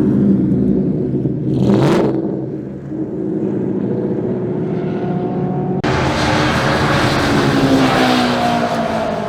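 Car engines running and revving, with a short burst of noise about two seconds in. An abrupt cut about six seconds in switches to another engine whose note falls steadily as it eases off or drives past.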